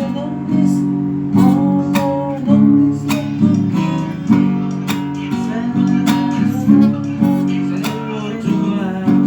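Acoustic guitar strumming chords at a steady rhythm, an instrumental stretch between sung lines.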